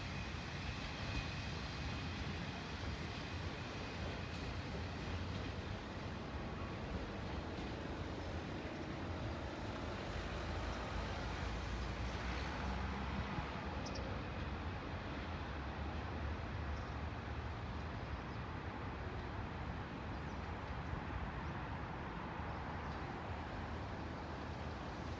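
Kanto Railway KiHa 0 diesel railcar set running as it pulls away, a steady low rumble of engine and wheels.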